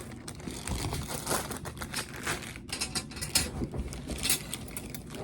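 Rapid, irregular clicking and small knocks of hard parts being handled.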